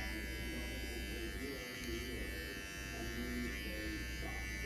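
TPOB GO electric hair clippers running with a steady buzz as they cut hair.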